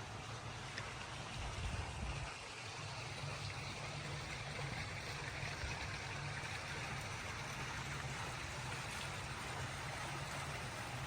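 Steady outdoor rushing noise with a low rumble underneath, even throughout.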